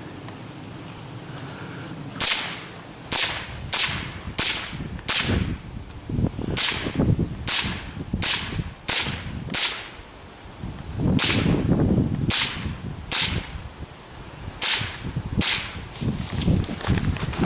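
A string of about twenty .22 LR rifle shots, sharp cracks fired at an uneven pace: some in quick pairs, others a second or more apart, starting about two seconds in.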